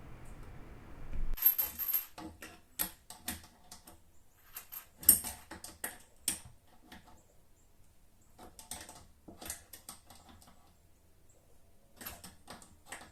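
Irregular metallic clicks and clinks of a wrench working the threaded nut fittings on a bidet's water-supply hose and the toilet supply line while they are tightened, coming in uneven clusters with short pauses.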